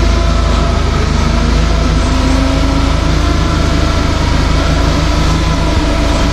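An engine running steadily at an even speed, with a deep hum and steady overtones.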